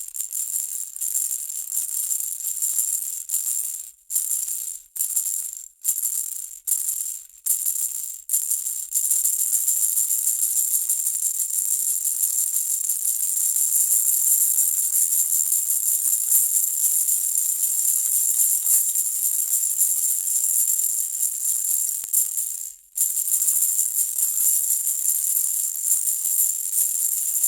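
Baby's hanging rattle toy being shaken, a high, hissy rattle. For the first several seconds it comes in separate shakes about once a second, then it turns into continuous shaking, with one brief pause late on.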